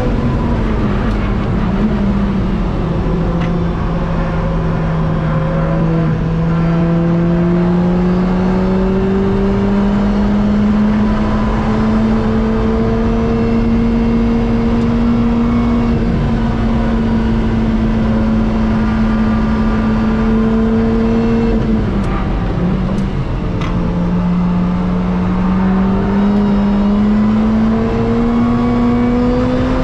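In-cabin sound of a Lotus Exige S's supercharged 1.8-litre four-cylinder engine through a Larini Group B exhaust, pulling under full throttle in a high gear with the pitch slowly climbing. The note drops suddenly about two-thirds of the way through as the car slows for a corner, then climbs again under acceleration. Road and wind noise runs underneath.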